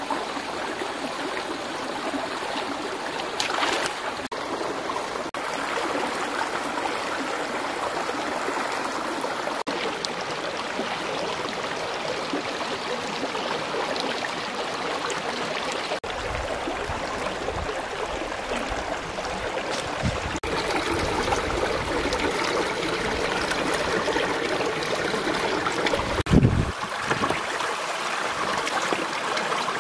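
Steady running water, like a small stream, with a single low thump near the end.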